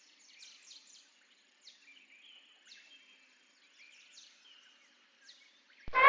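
Faint high chirps of small birds in the background. Right at the end, an elephant's loud, steady trumpet call begins.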